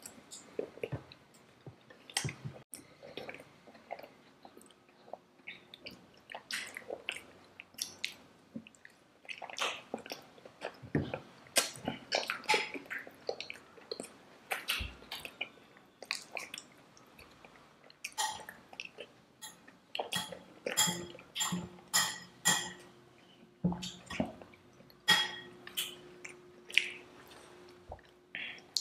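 Close-miked chewing and wet mouth sounds of two people eating Indian sweets, a steady run of short smacks and clicks.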